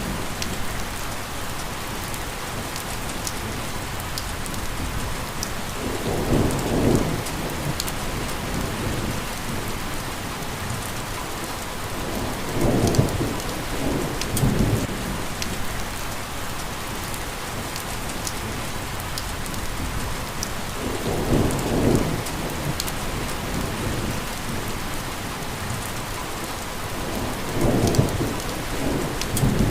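Steady rain falling on a surface, with low rolls of thunder swelling up every six to eight seconds.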